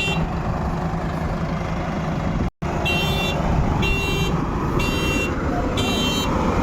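Heavy diesel machinery engine running steadily, cut off briefly about two and a half seconds in. After the break a reversing alarm sounds a short electronic beep about once a second.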